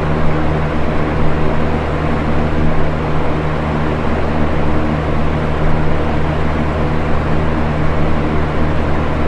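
Box fan running steadily: an even rush of air over a low motor hum.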